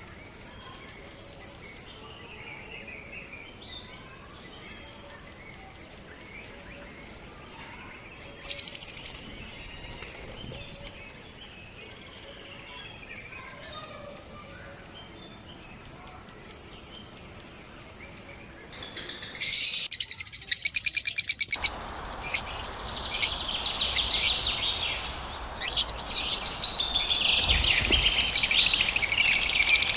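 Lovebirds chirping: faint, scattered chirps at first, then from about two-thirds of the way through a loud, dense chorus of high-pitched chirps from several birds.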